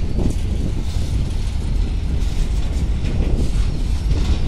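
Covered wagons of a long goods train rolling past close by: a steady low rumble of steel wheels on the rails, with irregular metallic clanks and rattles.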